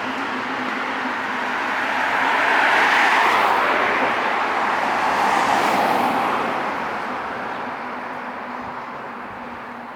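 A road vehicle passing by on a city street: engine and tyre noise swells, peaks a few seconds in, then fades away.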